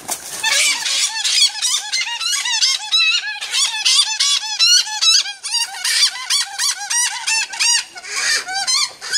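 A caught bird squawking in distress: a rapid, unbroken string of short, shrill, rising-and-falling calls, several a second, while it is being grabbed in a wire cage.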